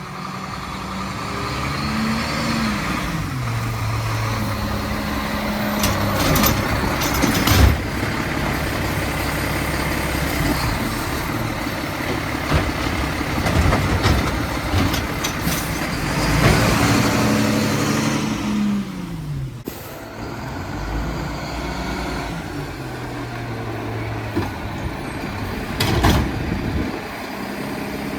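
Mack LEU garbage truck's diesel engine revving up, holding, then dropping back, twice, as the Bridgeport packer body compacts a load of trash, with sharp bangs from the packing gear.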